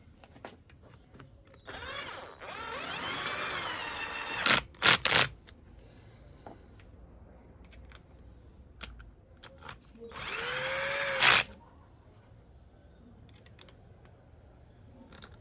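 Handheld electric drill driver run in short spells. The motor whirs for about two and a half seconds, changing pitch, then gives three quick loud bursts near the five-second mark. A second, shorter run rises in pitch about ten seconds in and ends in a loud burst.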